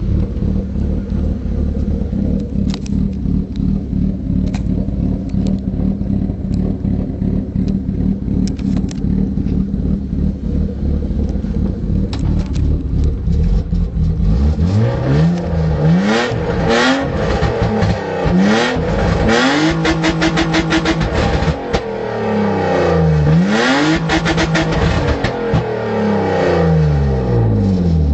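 BMW E36 320i's M50B20 2.0-litre straight-six running with no exhaust fitted: a steady idle for about the first half, then revved repeatedly, the pitch climbing and falling several times and held high once for a couple of seconds.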